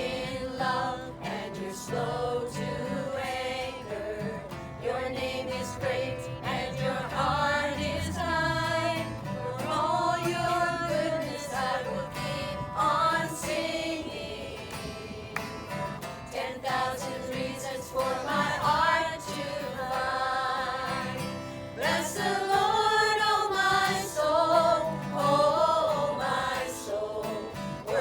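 A small group singing a gospel worship song together, unamplified, with a sustained low accompaniment under the voices.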